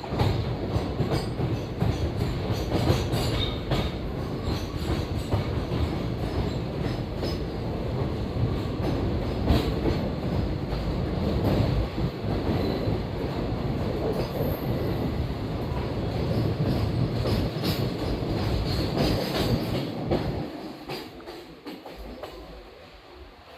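Passenger train running on the track, heard from aboard: a steady rumble with the clatter and clicks of wheels over the rails. It grows quieter about twenty seconds in.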